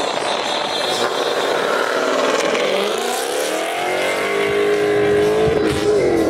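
Car engine revving hard under acceleration. Its pitch falls and climbs again midway, holds, then drops sharply near the end, as with gear shifts or lifting off the throttle.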